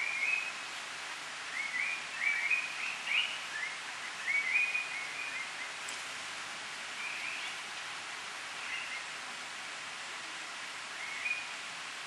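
Bird calling in short chirping phrases: a run of several in the first half, then a few single ones spaced out later, over a steady background hiss.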